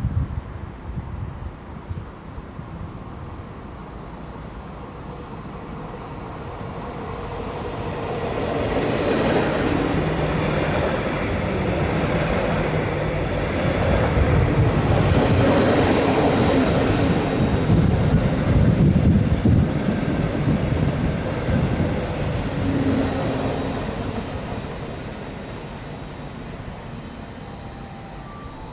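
A train passing by: the rumble and rattle of its wheels on the rails build up over several seconds, stay loud for about ten seconds, then fade away.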